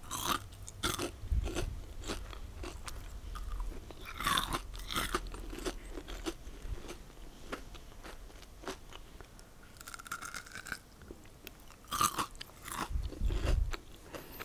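Close-up crunching and chewing of kohakuto, a Japanese crystallized jelly candy with a crisp sugar crust and soft inside, picked up by a clip-on microphone near the mouth. The crunches come in clusters, thickest near the start, about four seconds in and again near the end.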